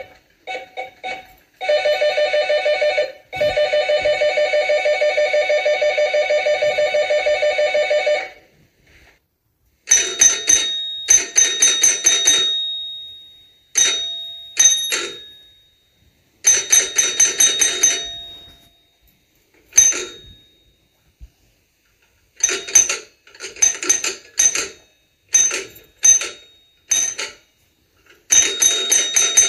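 Electric doorbells ringing. First one rings in a long, rapidly pulsing peal, with two brief breaks, and stops about eight seconds in. After a short pause a different bell is rung over and over in short and longer presses.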